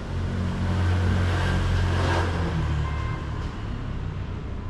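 A motor vehicle's engine running and passing by, a low hum that is loudest in the first two seconds and then eases off.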